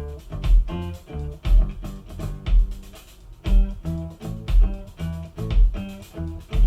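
Music with guitar, bass and drums played through Edifier S2000 MkIII powered bookshelf speakers, with a deep kick-drum thump about once a second, picked up by a camera's built-in microphone.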